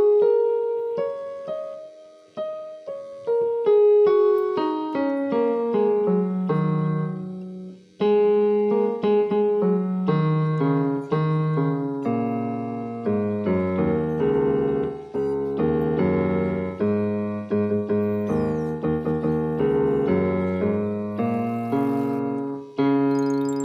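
Background piano music: single notes in a falling melody, then fuller chords with low bass notes from about halfway in.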